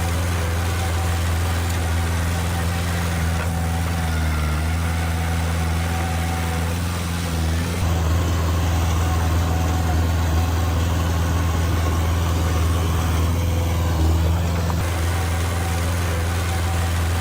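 Diesel engine of heavy earthmoving machinery running steadily with a low, even note, which changes slightly about eight seconds in and again near fifteen seconds.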